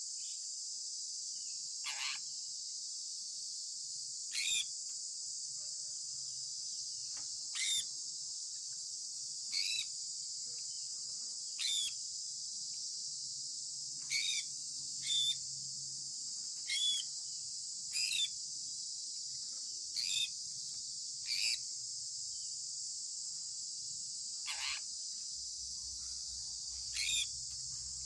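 Sun conure parrot giving short, sharp calls that drop in pitch, about thirteen of them, one every two seconds or so, over a steady high-pitched hiss like a chorus of crickets.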